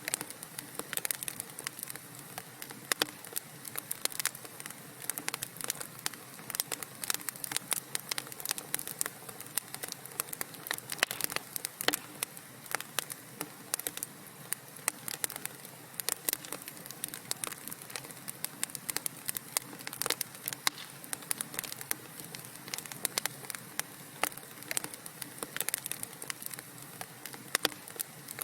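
Wood fire crackling in a fireplace: many irregular pops and snaps over a soft, steady hiss.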